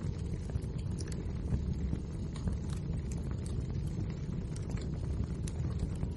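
Wood fire burning with a steady low rumble and frequent irregular crackles and pops from the burning logs.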